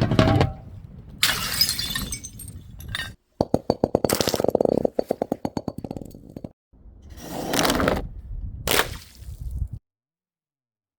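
Glass bottles shattering in a series of sharp crashes, with a fast clattering rattle of glass in the middle. The sound cuts off suddenly near the end.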